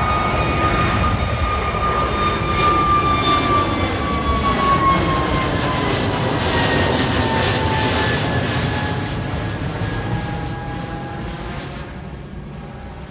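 Jet engines of a departing Frontier Airlines airliner passing by, with a loud whine that slowly falls in pitch as it goes past. The sound fades over the last few seconds.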